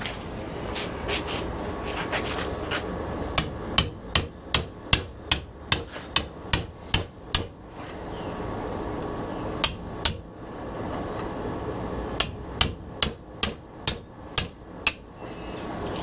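Hammer striking metal in quick runs of sharp blows, about two or three a second, with a pause between the runs, while a ceiling fan motor is knocked apart in a vise for its copper.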